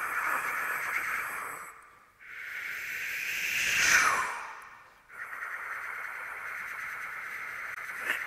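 A steady hiss that cuts out twice. Between the cuts a whoosh swells and falls in pitch, loudest about four seconds in.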